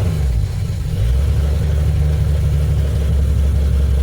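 Old Dodge Lancer engine running steadily at idle, just after being started, with its deep drone getting a little louder about a second in.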